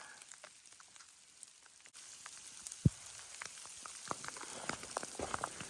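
Scattered large raindrops hitting, each a sharp tick over a faint hiss of rain, starting sparse and coming thicker toward the end, with one louder drop about three seconds in.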